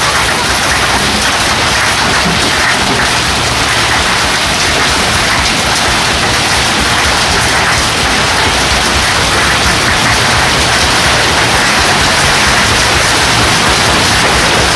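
Hail storm: hailstones and heavy rain pelting down in a loud, dense, steady hiss.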